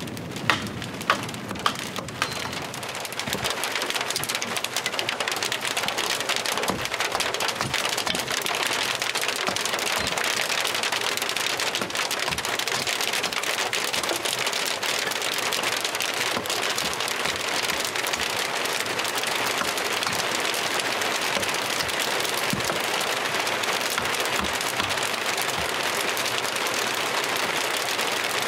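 Heavy rain falling steadily. A few sharp taps come in the first two seconds, then the downpour thickens into a dense, even hiss.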